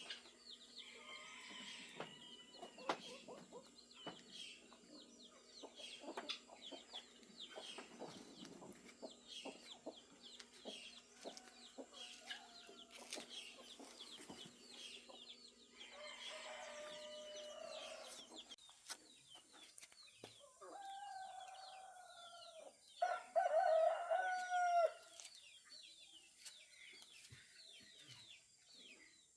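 Farmyard chickens clucking among many small birds chirping. A rooster crows twice in the last third, and the second crow is the loudest sound.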